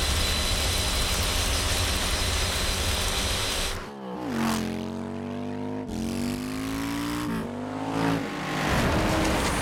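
Cartoon vehicle engine sound effects. A loud rushing noise runs for about four seconds, then engines rev, their pitch dropping and climbing again several times.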